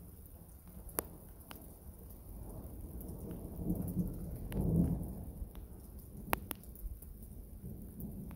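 Thunder rumbling low, swelling to its loudest about halfway through and then easing, over falling rain with scattered sharp raindrop taps.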